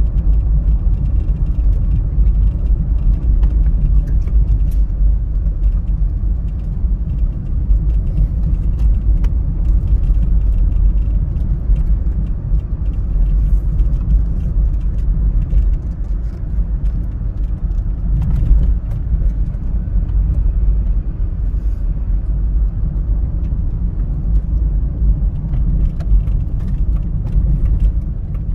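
A 1998 Mazda MPV Allsport 4WD on the move, heard as a steady low rumble of engine and road noise.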